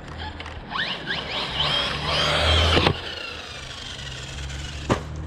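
Electric RC car's motor whining up in pitch under hard acceleration, cutting off sharply about three seconds in, followed by a fainter falling whine and a sharp knock near the end.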